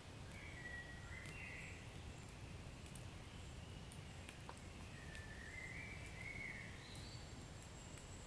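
Wood fire in a fireplace burning softly: scattered light crackles and pops over a low rumble. Two faint whistling tones wander up and down for about a second each, near the start and around the middle.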